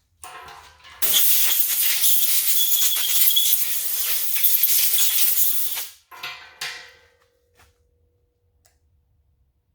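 Loud hiss of a pressurised spray, lasting about five seconds and cutting off suddenly, followed by two short bursts.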